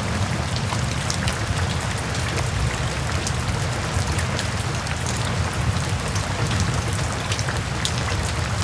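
Steady rain falling, a dense hiss of drops with many small separate drop ticks over a deep low rumble.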